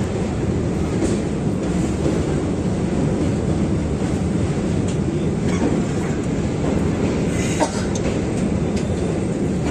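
Train crossing a steel truss bridge, heard from on board: a steady low rumble of wheels on the rails, with a brief sharp knock about three-quarters of the way through.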